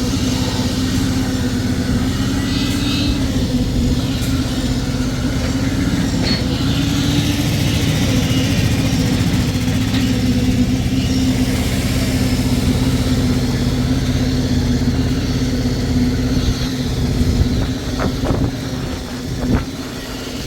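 An engine runs steadily, with a few sharp knocks near the end.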